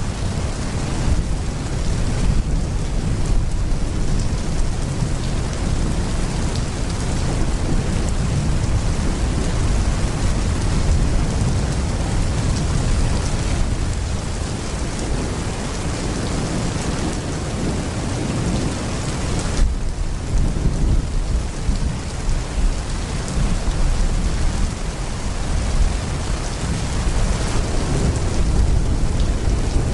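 Heavy rain pouring steadily, with thunder rumbling low underneath and a sudden sharp crack of thunder about two-thirds of the way through.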